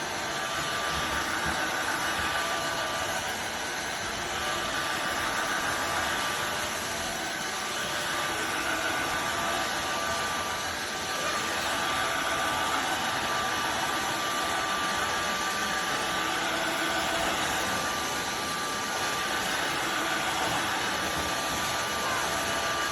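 Tineco iFloor 5 Steam wet-dry floor cleaner running its self-cleaning cycle in the dock: a steady motor whine with one constant high tone as the brush roller spins and the dirty water is sucked into the tank.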